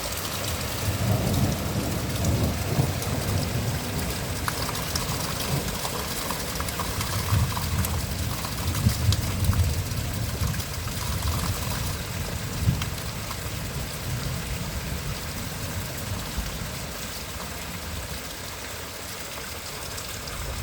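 Steady rain falling in a garden, an even hiss of drops. A low rumble swells and fades through the first two-thirds, then eases.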